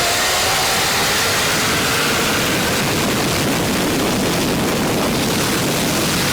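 Twin-turbo drag car at wide-open throttle down the strip. Its rising engine note fades out about a second in, leaving a loud, steady rushing noise.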